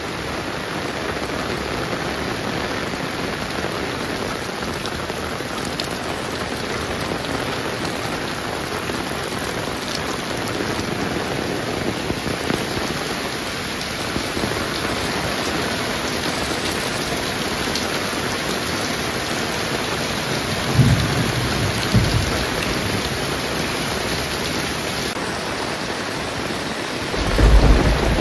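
Heavy rain pouring steadily. Near the end come two short low thumps, then a louder low rumble.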